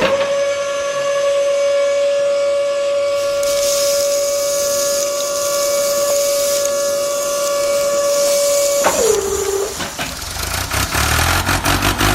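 A long, steady whistle with a hiss above it. About nine seconds in it slides down in pitch and stops.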